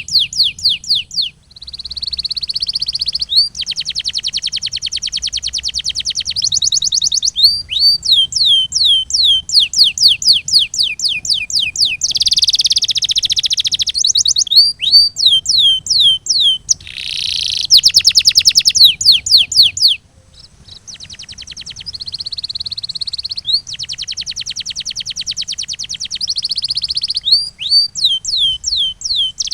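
Canary singing: rapid rolling trills alternating with runs of quick falling whistled notes, phrase after phrase, with brief breaks about one and a half seconds in and again around twenty seconds in.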